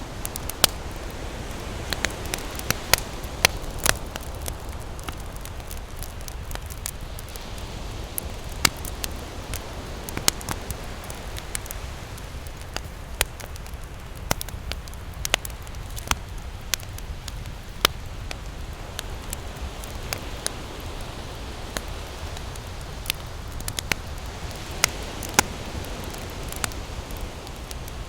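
Wood campfire crackling, with frequent sharp irregular pops, over a steady low rush of ocean waves.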